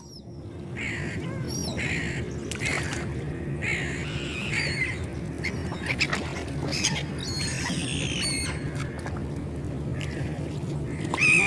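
A flock of seagulls calling, many short overlapping cries repeated throughout, over a steady low background noise.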